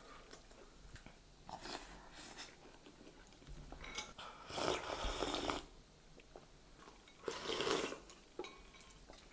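A person eating close to the microphone: chewing and biting in a few short spells, the loudest about five seconds in.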